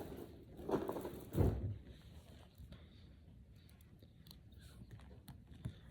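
Two louder bumps about a second in, then many light, sharp clicks and rattles of plastic Brain Flakes discs being handled and pushed together.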